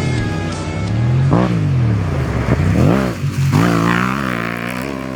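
Rally vehicle engine revving up and down several times, starting about a second and a half in, over background music.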